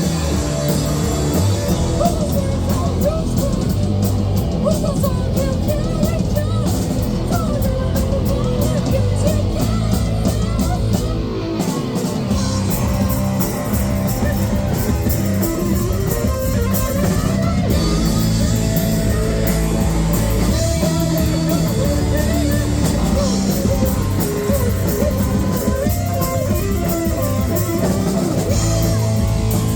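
Live rock band playing: guitar and drum kit, with singing.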